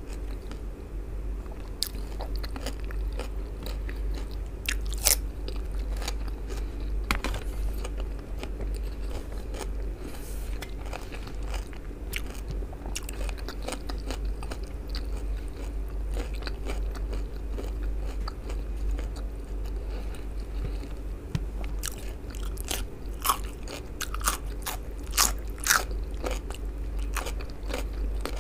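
Close-miked chewing and crunching of raw cucumber, with sharp crisp bite clicks scattered through and several close together near the end, over a steady low hum.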